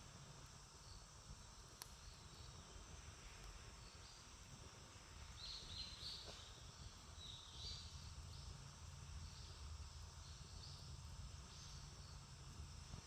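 Faint outdoor ambience with steady insect buzzing. A few short high chirps come about halfway through, and a single soft click comes early on.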